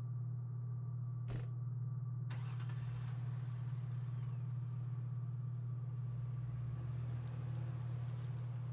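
A motor vehicle's engine running steadily with a low hum. A single click comes just over a second in, and a rushing hiss joins about two seconds in.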